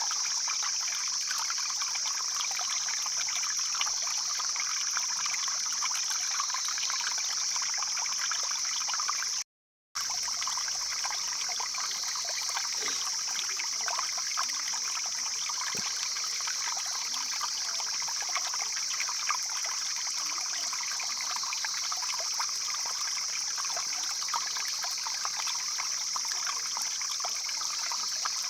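Stream flowing: steady rushing and trickling water with constant fine splashing. The sound cuts out completely for a moment about a third of the way in, then resumes unchanged.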